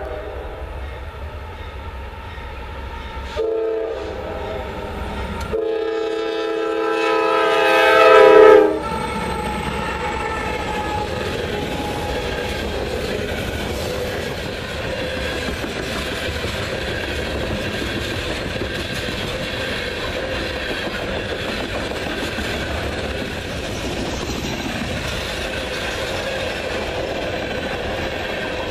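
Norfolk Southern diesel freight locomotive's air horn: a short blast, then a long blast that grows louder and drops in pitch as the locomotive passes close by. It is followed by the steady noise of a long string of open-top hopper cars rolling past on the rails.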